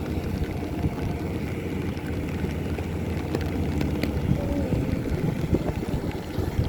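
Rice combine harvester's engine running, a steady low rumble.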